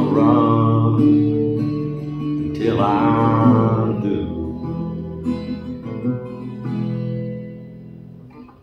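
Song outro: acoustic guitar chords ringing and slowly fading out, with a long gliding note bending in about two and a half seconds in.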